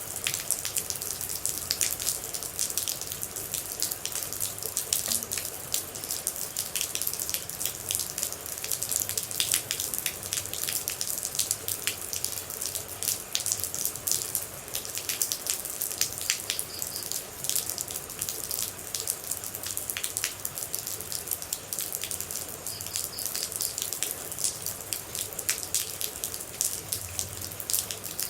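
Rain and water droplets falling and splashing: a steady hiss with a dense, irregular patter of sharp drips.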